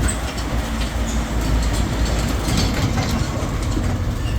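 Tourist road train running, heard from on board: a steady low engine rumble with scattered clicks and rattles from the carriages.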